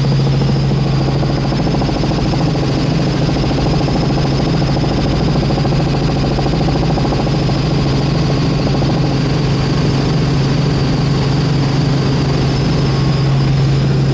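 Helicopter in flight: a loud, steady engine and rotor drone with a thin, steady high whine over it.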